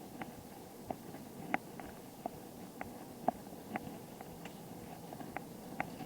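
A bicycle in motion: a steady rolling hum from tyres and road with light, irregular clicks and rattles, one or two a second.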